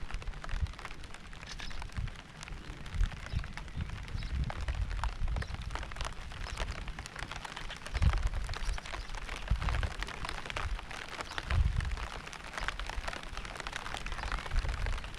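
Rain falling, with a dense spatter of individual drops striking close by. Irregular low rumbling thuds come and go underneath, the strongest about three, eight and eleven and a half seconds in.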